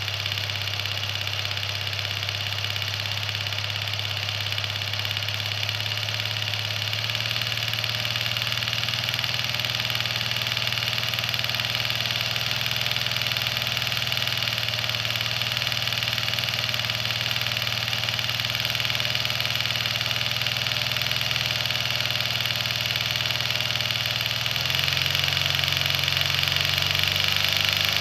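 Ingersoll Rand inline seven-cylinder two-stroke diesel engine running steadily at low speed. Its pitch shifts slightly about seven seconds in, and again near the end, where it also gets a little louder.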